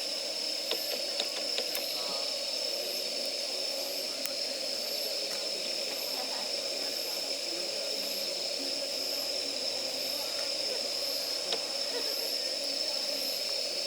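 Campfire of damp firewood burning with a steady hiss, with a few sharp crackles about a second in and again near the end. Insects chirp at an even pace, about once a second, behind it.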